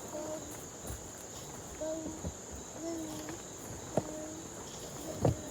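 Steady high-pitched chorus of crickets. A few short pitched calls and a couple of sharp knocks come through it, one about four seconds in and one near the end.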